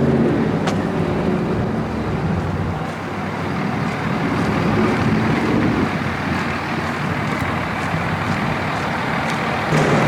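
A motor vehicle's engine running steadily, with outdoor noise around it.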